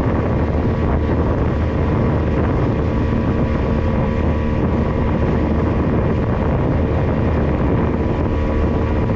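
Motorboat engine running at a steady speed under way, a constant engine drone over rushing wind and water noise.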